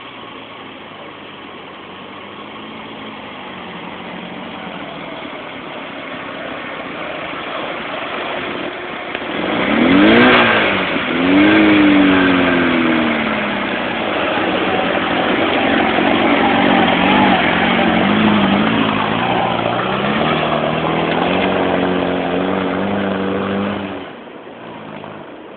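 Car engine on a classic trials section, growing louder as the car approaches. About ten seconds in the revs swing sharply up and down twice, then the engine runs hard under load. Near the end it cuts away suddenly.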